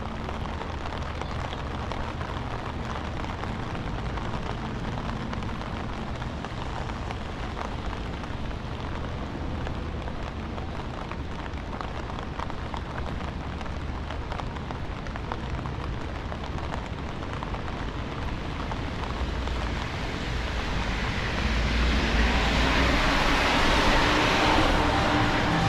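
Steady rain on a city street with a low traffic rumble. About three-quarters of the way through, a louder hiss swells up and holds to the end: a vehicle driving past on the wet road, its tyres hissing.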